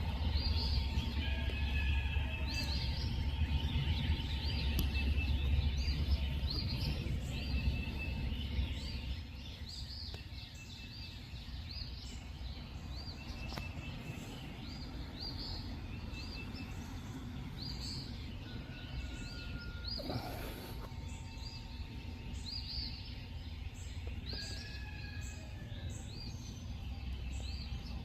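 Night-time outdoor ambience: many short, high chirps repeating over and over from small animals, over a low rumble that eases off about nine seconds in. A brief rushing sound comes about two-thirds of the way through.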